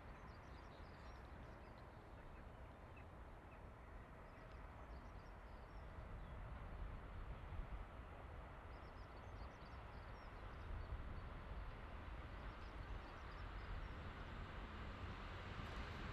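Faint rumble of an approaching freight train, growing steadily louder, with birds chirping now and then.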